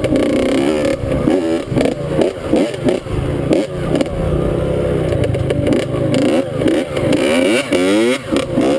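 Dirt bike engine revving up and down as it is ridden, the pitch rising and falling every second or so, with sharp climbs in pitch near the end as it accelerates hard.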